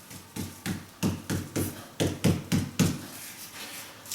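Repeated dull knocks, about a dozen at roughly three a second, uneven: a river flagstone being tapped down to bed it into fresh mortar.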